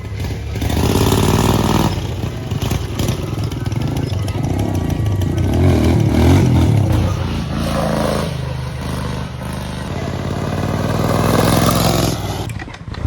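Pit bike engine revving up and down in several swells as the bike is ridden, fading away near the end.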